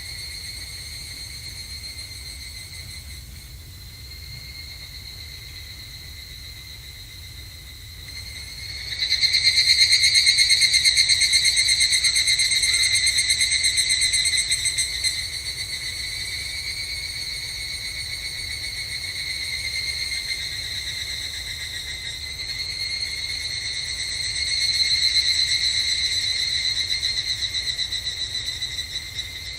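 Evening cicadas (higurashi, Tanna japonensis) calling in a chorus, a steady high ringing trill. A louder caller comes in about nine seconds in, and the chorus swells again near the end. A faint low rumble lies underneath.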